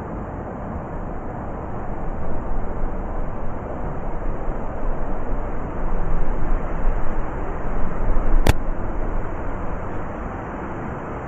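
Heavy blizzard wind blowing as a steady deep roar of noise, swelling in gusts a couple of seconds in and again past the middle. One sharp click sounds about two-thirds of the way through.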